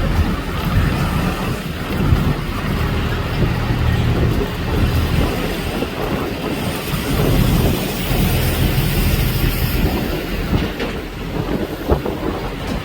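Steady low rumble of a vehicle in motion, with irregular knocks and clatter.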